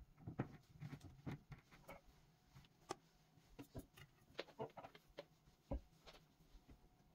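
Faint, scattered light clicks and taps at irregular intervals, as of small household items being handled and set down during tidying.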